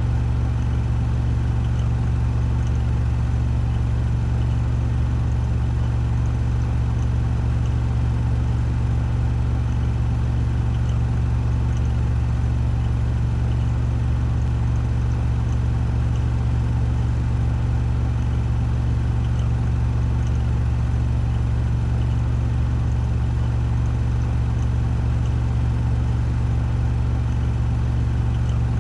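Washing machine on its 1400 rpm spin cycle: a steady deep hum from the spinning drum and motor, holding the same speed throughout.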